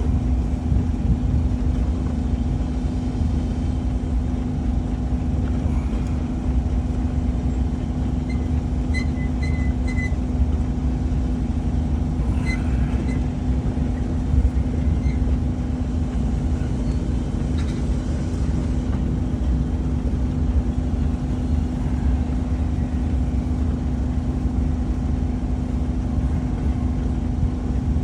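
Heavy diesel engine running steadily at idle: a constant low rumble with a steady hum. A few faint metallic clinks come through a third to half of the way in.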